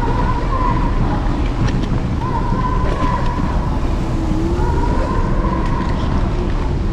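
Apollo Explore electric scooter riding along a city street: a wavering motor whine that rises and falls with speed over the steady rumble of wind buffeting the handlebar-mounted camera, with a few sharp rattles from bumps.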